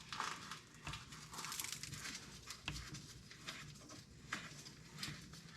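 Used diesel engine oil draining from a compact tractor's sump into a pan, a faint continuous pouring hiss with a few light clicks of handling.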